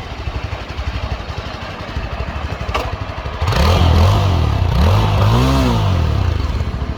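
2022 Yezdi Scrambler's 334cc single-cylinder engine and exhaust running with a fast, even pulse. From about three and a half seconds in it gets louder and is revved up and down several times, the biggest rise and fall near the end.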